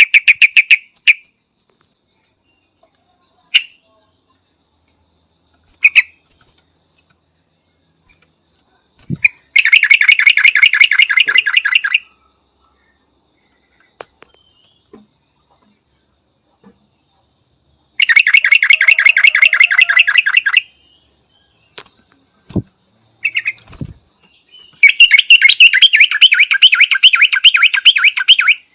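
Yellow-vented bulbul calling: three bursts of rapid, repeated chattering notes of two to three seconds each, with short single calls in between.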